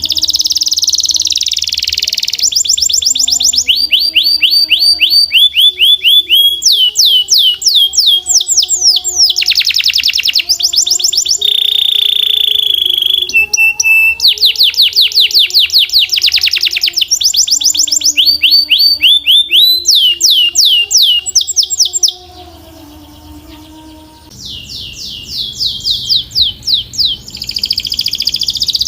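Domestic canary singing: phrase after phrase of fast trills, each a run of rapid repeated notes at a different pitch. The song breaks off for about two seconds some three-quarters of the way through, then starts again.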